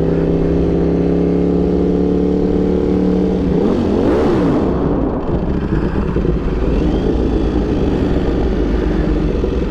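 Ducati Panigale V4's V4 engine through a Competition Werkes GP race exhaust, running steadily at constant revs. About three and a half seconds in, the pitch swoops down and up as the revs change. The engine then runs on with a rougher, noisier sound.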